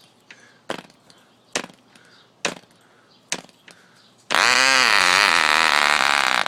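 Cox .049 single-cylinder two-stroke glow engine being flipped by hand, a sharp click with each flip about once a second, then about four seconds in it catches and runs loud and high-pitched with a wavering pitch. It has started running backwards, in reverse rotation.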